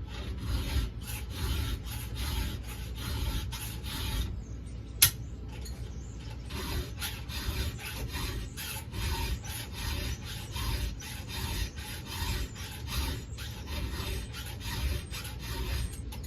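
A 7/32 round file being stroked across the cutter teeth of a semi-chisel saw chain, a steady run of quick rasping strokes as the chain is hand-sharpened. A single sharp click about five seconds in.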